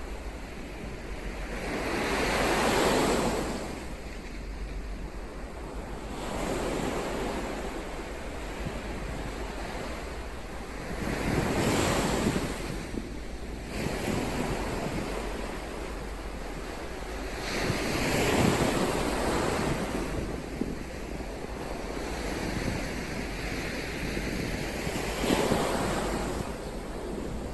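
Ocean waves, the surf swelling and fading in four big surges about every six or seven seconds, with a smaller one between the first two, over a steady low rumble.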